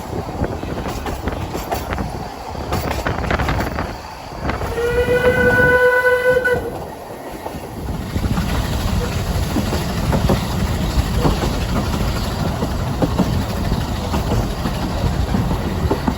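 Narrow-gauge train running, with one steady whistle blast lasting about two seconds about five seconds in. From about eight seconds the running rumble and wheel clatter get louder.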